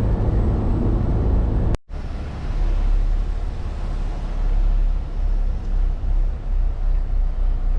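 Steady low engine and road drone heard inside a semi-truck cab while driving, with a brief total dropout about two seconds in before the drone resumes.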